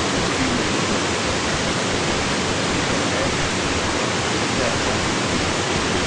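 Waterfall: a steady, unbroken rush of falling water, even across high and low pitches.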